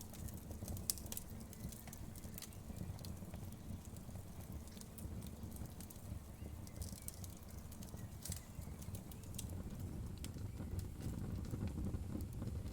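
Wood fire burning in a fireplace: a steady low rumble of flames with scattered sharp crackles and pops, several coming close together about seven to eight seconds in.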